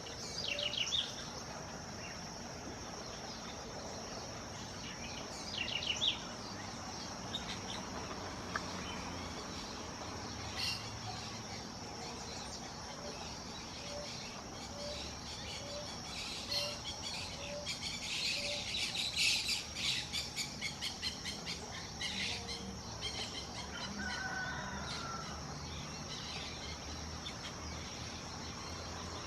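Birds calling at intervals, with a burst of rapid chattering calls in the middle, over a continuous high-pitched insect drone.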